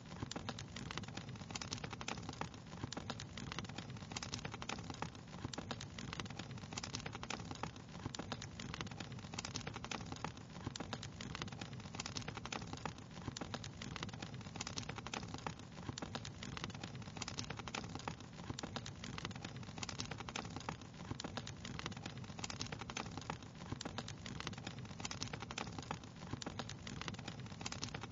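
Fire crackling steadily, with a dense run of small irregular pops and snaps over a low, even rumble.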